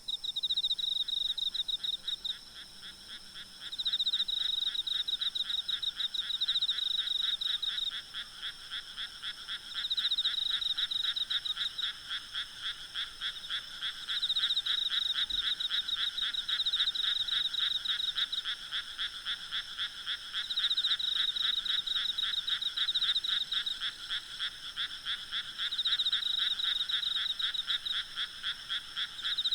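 Night chorus of frogs calling in rapid pulsed trills, swelling into louder bouts every few seconds, with insects trilling steadily and faintly higher up.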